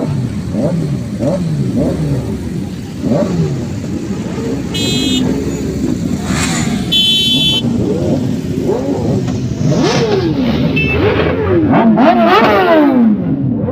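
Motorcycle engines revving over and over, their pitch rising and falling in quick sweeps that grow stronger near the end. Two short high beeps cut in, about five and seven seconds in.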